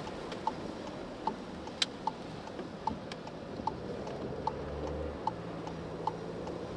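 Car turn-signal indicator ticking steadily, about one tick every 0.8 seconds, over the steady hiss of tyres and rain inside the cabin, with one sharper click about two seconds in.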